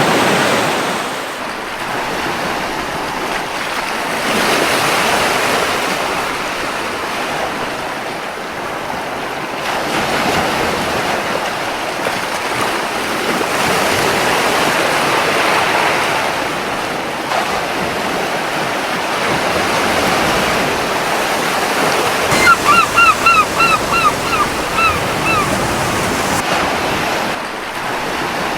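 Surf washing onto a beach, swelling and easing every few seconds. Past two-thirds of the way through, a seagull calls a quick run of about ten short notes.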